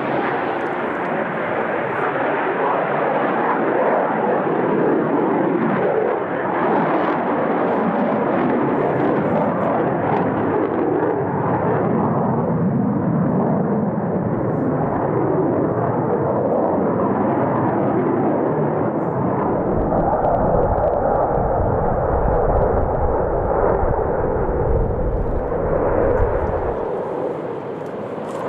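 Saab JAS 39 Gripen fighter jet flying its display, a continuous loud jet roar. A deep rumble swells in about twenty seconds in and fades out a few seconds before the end.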